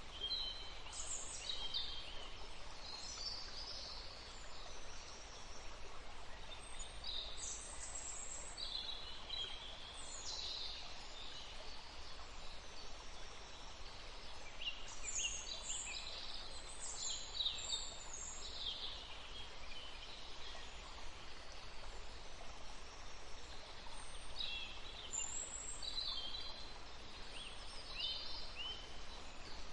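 Small songbirds chirping and singing in short bursts of high, quick notes, several clusters over the stretch, over a steady background hiss of forest ambience.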